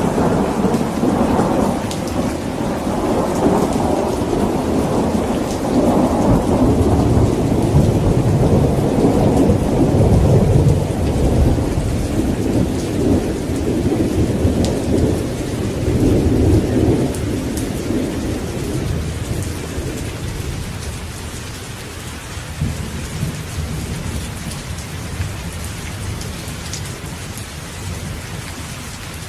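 Rain falling steadily with a long roll of thunder that rumbles loudest in the first half and fades out, leaving the rain hiss with a faint distant rumble near the end.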